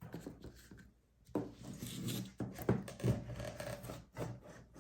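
Handling noise: irregular rubbing and rustling with a few light clicks and knocks as objects are moved about by hand, with a quieter gap about a second in.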